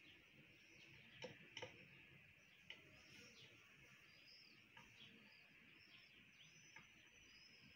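Near silence: faint bird chirps in the background, with a few light clicks in the first three seconds.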